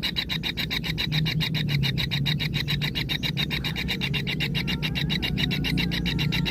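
Kingfisher chicks' churring begging call: a rapid, even ticking trill of about eight pulses a second that keeps going without a break, over a low steady hum.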